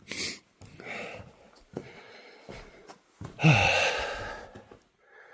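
A man's breathing: a sharp intake at the start, a softer breath about a second in, and a loud exhale about three and a half seconds in that drops in pitch as it trails off.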